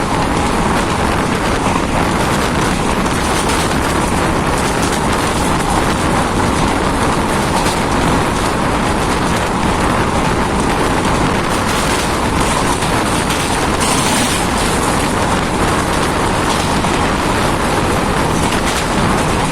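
Jan Shatabdi Express passenger train running along the line, a loud steady rumble and rush of wheels on rail.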